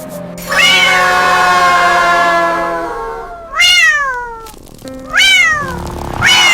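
A cat meowing: one long drawn-out meow, then two short meows that rise and fall in pitch, and a fourth starting at the very end. Background music plays underneath.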